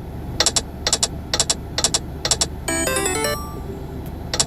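Dynamite Dash: All Aboard online slot game's sound effects as the reels spin: sharp electronic ticks in quick pairs about twice a second, with a short chiming jingle a little past the middle.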